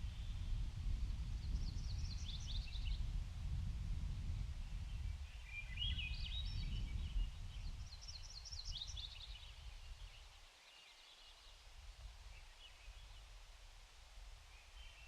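Small birds twittering in several short bursts of high chirps and trills, over a low, uneven rumble that eases off about ten seconds in.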